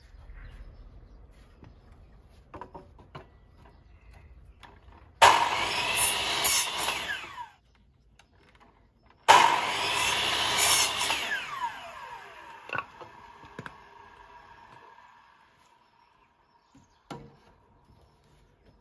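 Power saw cutting timber twice, each cut starting suddenly and lasting about two seconds, the blade whining down after each cut. Light knocks of wood being handled between the cuts.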